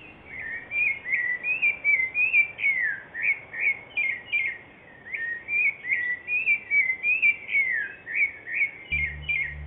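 A songbird singing a fast, continuous run of short whistled chirps, about three a second, many of them sliding downward.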